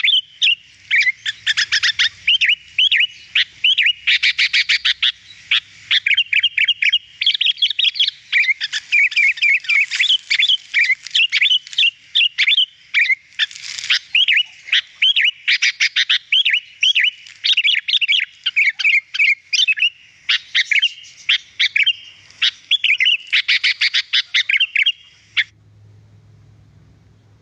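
Sooty-headed bulbul (kutilang) in full song, a dense, fast run of clear chirping and whistled notes with hardly a pause, which breaks off near the end.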